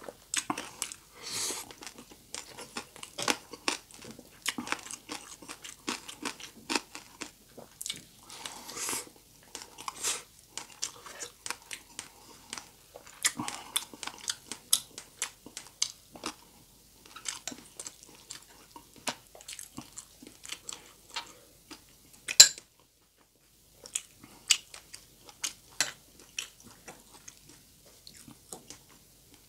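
A person chewing and crunching crispy deep-fried pork belly (lechon kawali), with many irregular crunches of the crackling skin. One sharp, loud crack comes about three-quarters of the way through, followed by a moment of silence.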